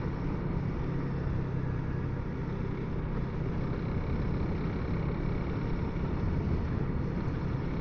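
Honda CRF300L's single-cylinder engine running at a steady speed while riding, heard through the helmet's Sena Bluetooth intercom microphone.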